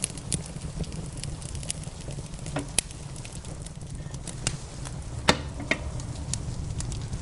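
Wood fire in a fireplace crackling with irregular small pops, two louder ones about three and five seconds in, over a steady low rumble.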